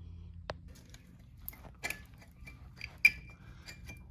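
Small metal valve-train parts clinking and tapping as they are handled and set down: a scattering of light ticks, the sharpest a ringing metal clink about three seconds in.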